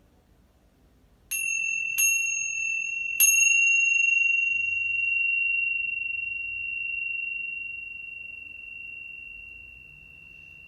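A high-pitched metal chime struck three times within about two seconds, then left to ring on one clear tone that slowly fades.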